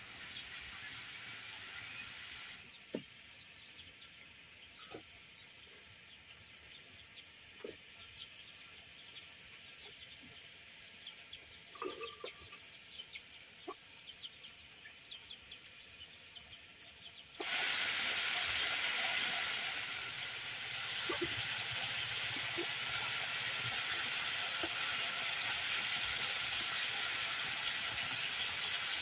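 Sizzling curry in a wok. Then a quieter stretch of birds chirping and chickens clucking, with a few light knocks. About two-thirds of the way in, loud, steady sizzling of fish pieces frying in the curry takes over.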